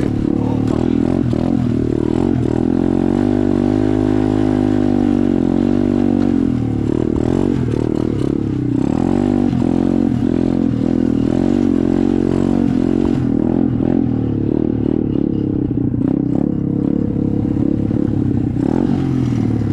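SSR 125 dirt bike's single-cylinder engine running under load as it is ridden, revving up and down with the throttle.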